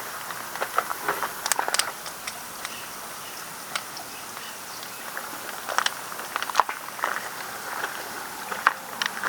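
Irregular footsteps and scuffs on a path over a steady outdoor background hiss.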